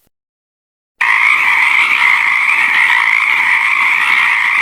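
Frog call: a steady, unbroken trill that starts about a second in.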